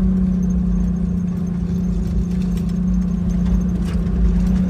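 Jeep Wrangler YJ engine running with a steady drone while the vehicle drives slowly, heard from inside the cab. Wind rumbles on the microphone underneath, with a few light clicks and rattles.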